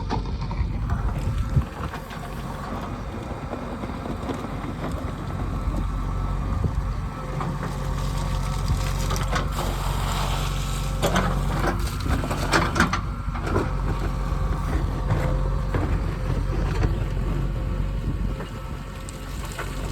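Heavy diesel earth-moving machinery running steadily, with several sharp knocks and clanks through the middle as soil is dug and loaded.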